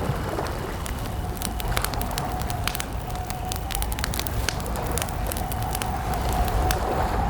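Wood campfire crackling, with frequent sharp, irregular pops and snaps over a steady low rumble of the burning fire.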